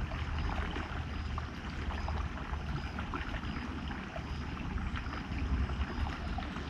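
A river flowing over rocks: a steady rush of water with a heavy low rumble and many small, irregular splashes.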